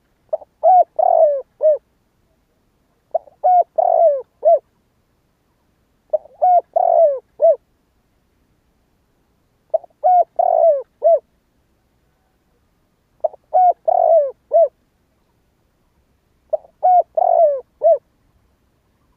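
Spotted dove cooing: six matching phrases about three seconds apart, each a quick run of low, rounded coo notes.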